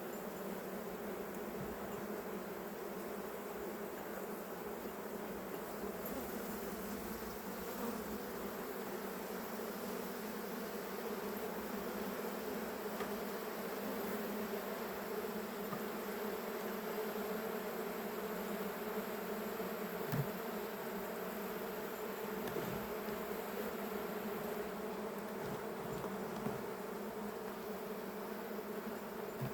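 Honeybees from an opened hive buzzing in a steady hum, with one brief knock about two-thirds of the way through.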